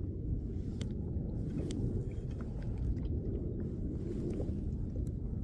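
Steady low rumble of wind buffeting the microphone on a kayak, with a few faint small clicks.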